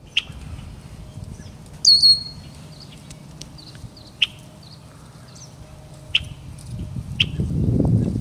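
A bird calling: a few short, sharp chip notes, and about two seconds in one loud whistled note that slides down and then holds briefly. A low rustling noise builds near the end.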